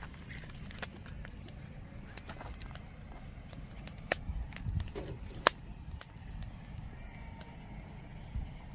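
Wood campfire crackling: irregular sharp pops and snaps, one louder pop about halfway through, over a low steady rumble.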